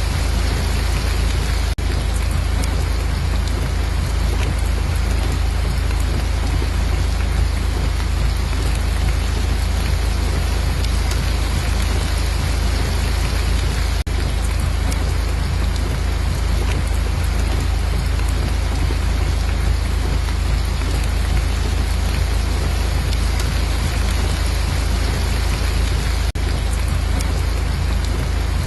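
Steady heavy rain falling, an even hiss over a constant deep rumble, with no change in intensity apart from two brief momentary dips.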